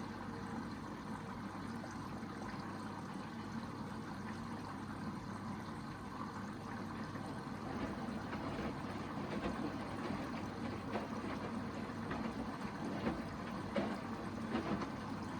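Hoover VHD 9163 ZI front-loading washing machine in its first rinse, with water running and sloshing in the drum as a steady rushing noise. Soft knocks and swells come through in the later seconds.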